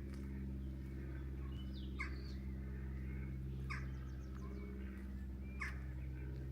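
A bird repeats a short call that drops in pitch, about every two seconds, with fainter birdsong in between. A steady low hum runs under it throughout.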